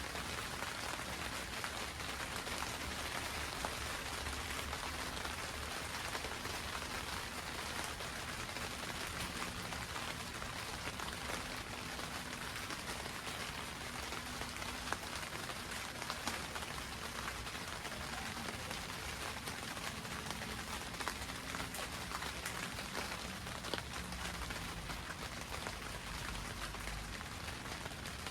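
Steady rain drumming on a greenhouse roof, heard from inside: a dense, even patter of many small drop ticks that holds constant throughout.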